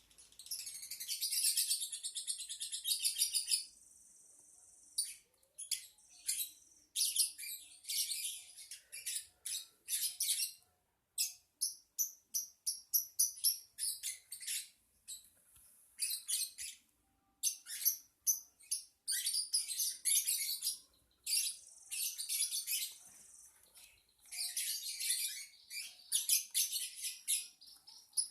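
Lovebird singing: long runs of rapid, high-pitched chattering trills at the start and again near the end, with shorter bursts of chirps and brief pauses between.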